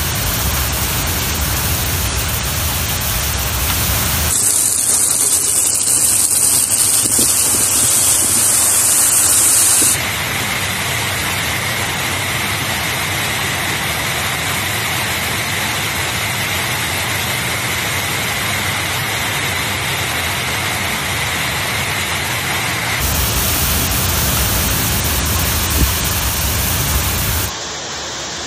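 Steady roar of heavy storm rain and wind, in several clips that cut abruptly into one another a few times, including a long stretch heard from inside a sports hall.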